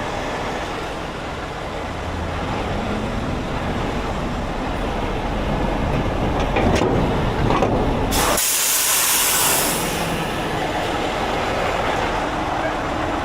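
Heavy truck diesel engines running steadily, with a loud hiss for about two seconds starting around eight seconds in.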